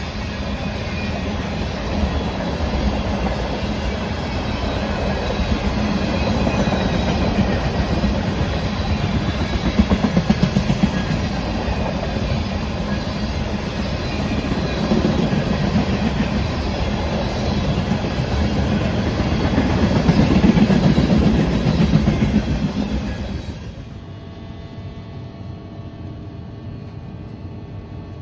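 A train passing at trackside: the steady rumble and clickety-clack of railcar wheels on the rails. The noise drops off suddenly about four seconds before the end, leaving a much quieter hum.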